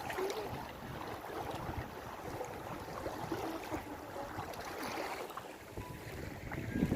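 Wind buffeting the microphone, over a steady rush of water in the background.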